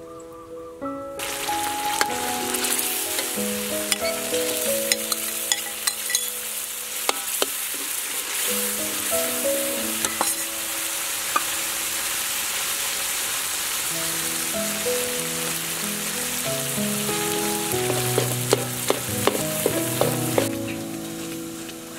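Coconut milk and red paste sizzling hard in a hot wok, with a metal spoon stirring and clinking against the pan. The sizzle starts about a second in and dies down near the end, over soft background music.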